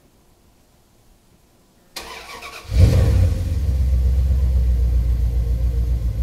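A 2000 Dodge Ram 1500 pickup's engine starting. The starter cranks briefly about two seconds in, the engine catches with a loud flare under a second later, then settles into a steady idle.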